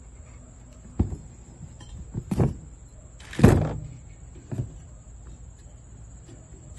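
Knocks and clunks of metal motorcycle exhaust parts being handled while an exhaust gasket is fitted. There are four separate knocks; the loudest, about three and a half seconds in, drags on briefly like a scrape.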